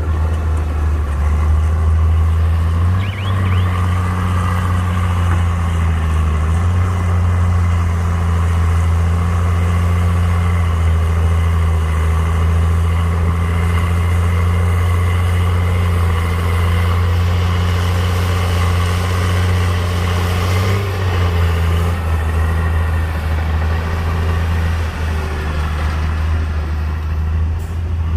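Heavy diesel engine of earthmoving equipment running steadily under load, a deep drone whose pitch steps up or down a few times as the throttle or load changes.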